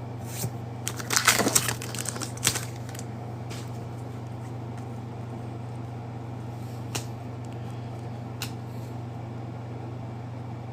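Trading-card packs and cards being handled: a few soft rustles and clicks in the first couple of seconds and a single click or two later, over a steady low hum.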